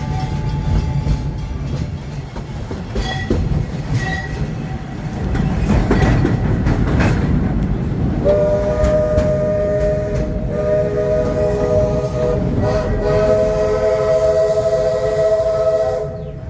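Walt Disney World Railroad steam train rolling along with a steady low rumble. About eight seconds in, its steam whistle sounds a long chord of several notes, held for about eight seconds with two brief breaks.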